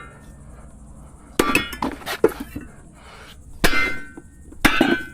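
Pieces of scrap metal clanking against other metal, about four sharp hits, several with a brief metallic ring.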